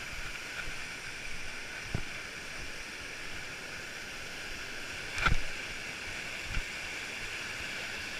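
Steady rushing of flowing water, with a few knocks like footfalls on rock, the loudest about five seconds in.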